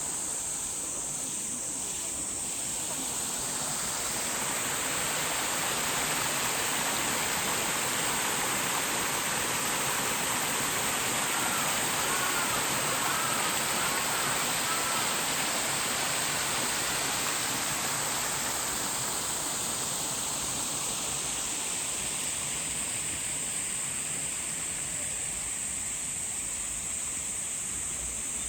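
Rushing water of a stream or small waterfall, swelling to its loudest over the middle and easing off again. Under it runs a steady high-pitched insect drone.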